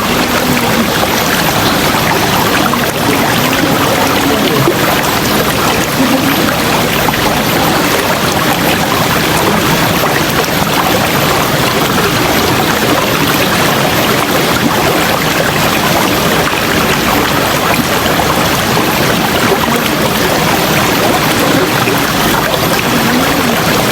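River water rushing steadily, a loud, even wash of flowing-water noise with no letup.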